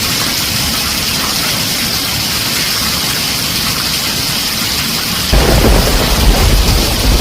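Heavy rain drumming on a tin roof, a steady hiss. About five seconds in, a loud rumble of thunder comes in and keeps going.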